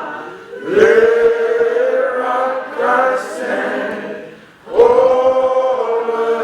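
A choir singing slow, long-held notes. New phrases swell in about a second in and again near five seconds.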